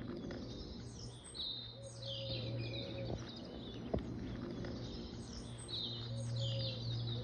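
Small songbirds singing in short bursts of high chirps every couple of seconds, over a low steady hum.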